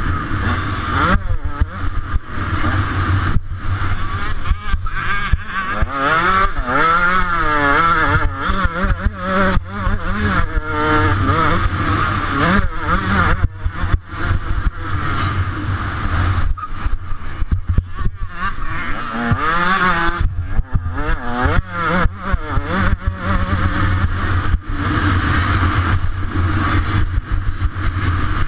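125cc motocross bike engine at race pace, revving up and falling back over and over as the throttle opens and closes.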